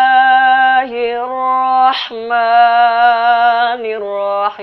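A man chanting Quran recitation in the long-breath tartil style, holding long melodic notes with slight ornaments. The line breaks briefly about a second in and again, with a short breath, about two seconds in.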